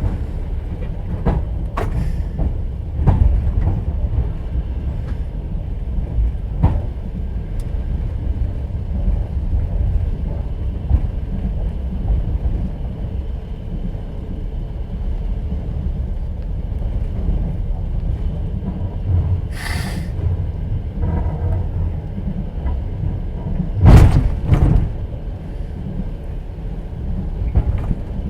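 The inside of a moving passenger train's sleeper carriage: a steady low rumble of wheels on the track, with sharp knocks as the wheels cross rail joints. There is a short hiss about two-thirds through, and a louder double knock near the end.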